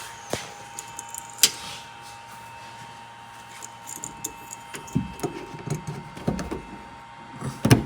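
Hands working plastic trim and wiring connectors: sharp clicks, with rustling and light knocks from handling the parts.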